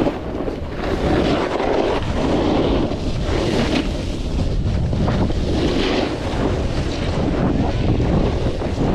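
Loud, steady rushing wind noise on a snowboarder's POV camera microphone.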